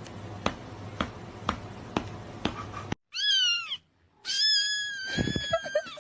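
Domestic cat meowing twice: a short call with a rising-then-falling pitch, then a longer, drawn-out meow. Before the meows there is a faint steady hiss with soft ticks about twice a second.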